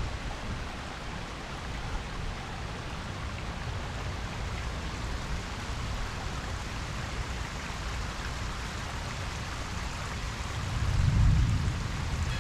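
Steady rain falling on a pond, with a low rumble underneath that swells briefly near the end.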